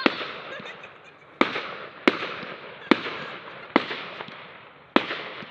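Display fireworks bursting overhead: six sharp bangs about a second apart, each trailing away before the next.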